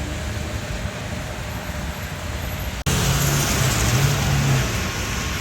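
Steady jet airliner noise during a landing. It cuts off abruptly about three seconds in and comes back louder, with a low hum.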